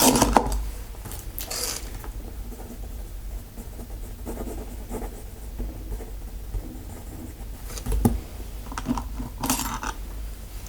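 Close-up ASMR handling sounds for a dentist roleplay: scattered scratching and rustling strokes near the microphone, with a single sharp click about eight seconds in.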